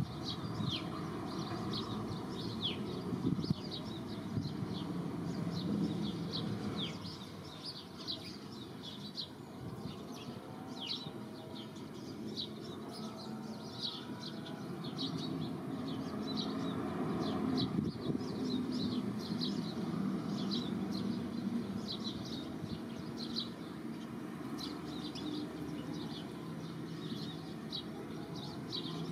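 Birds chirping: many short, high, downward-slurred chirps, two or three a second, over a steady low rumble.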